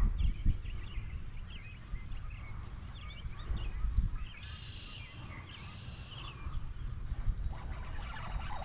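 Birds chirping and trilling, with two longer trills about four and a half and six seconds in, over wind rumbling on the microphone.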